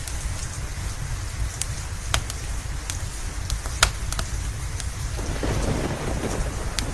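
Steady rain with a constant low rumble, broken by sharp crackles and pops from a wood fire in a fireplace. A roll of thunder swells up about five seconds in.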